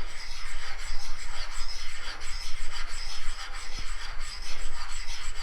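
A 4140 steel spacer being rubbed by hand on a flat lap coated with abrasive lapping compound. It makes a continuous gritty scraping that swells and fades with the strokes, as the compound cuts the surface flat.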